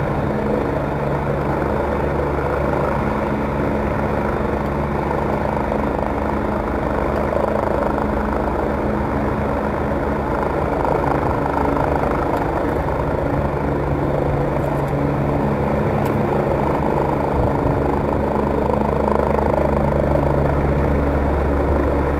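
Helicopter hovering: a steady drone of rotor and engine that holds at one level.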